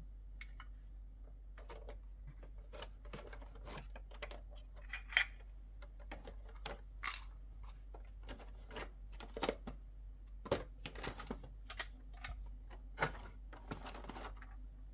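Small plastic toy pieces and packaging being handled: irregular light clicks and taps, coming faster in the second half, with a short scratchy rustle near the end, over a steady low hum.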